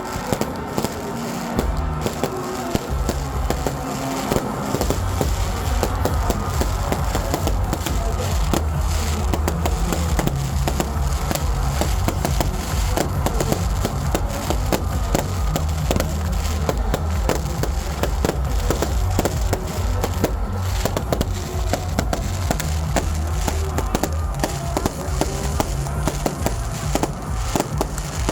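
Fireworks going off in a dense, continuous run of sharp bangs and crackles, over loud music with a heavy bass.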